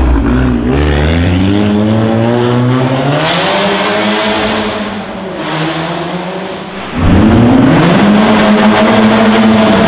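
VW Golf R Mk7's turbocharged four-cylinder engine accelerating hard through an Armytrix valved exhaust, its note climbing steadily for the first few seconds. The sound falls away around five seconds in, then comes back suddenly louder about seven seconds in and holds a steady note, echoing in a tunnel.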